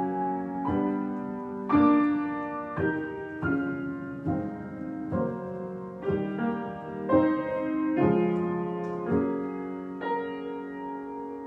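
Solo piano improvisation: slow chords struck about once a second, the last one, about ten seconds in, left to ring and die away.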